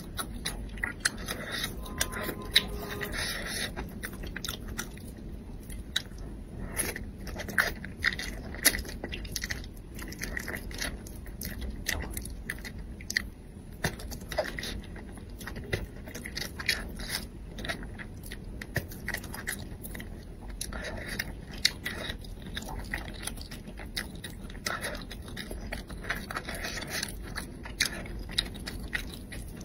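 A person chewing and biting braised crucian carp, with many short mouth clicks and crunches of small bones, and now and then chopsticks scraping.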